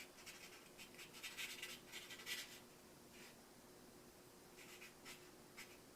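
Sharpie felt-tip marker writing on a new furnace filter: faint scratchy pen strokes in two spells, the first lasting about two seconds and a second one near the end.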